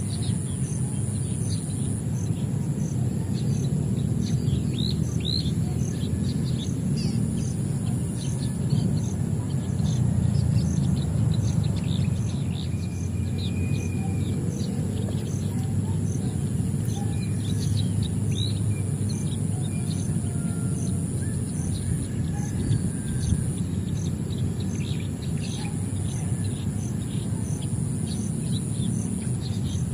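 Small birds chirping with many short, scattered calls over a steady high insect drone. A steady low rumble of outdoor background noise runs underneath.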